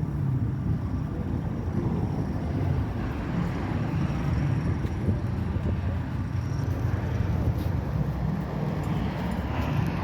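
Motorcycle engine running steadily, a continuous low engine sound.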